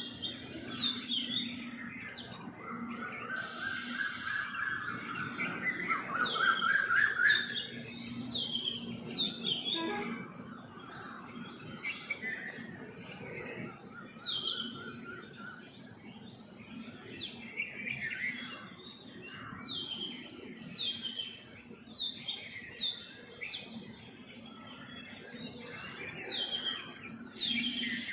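Several songbirds chirping together in a morning chorus: many quick, high, falling chirps overlapping, with a lower trilling phrase that rises in pitch a few seconds in and comes again near the middle.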